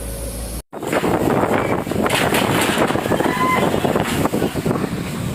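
Strong wind gusting against the microphone with rain, a loud rough rush with rapid buffeting, starting after an abrupt cut about half a second in from a steady low mechanical hum.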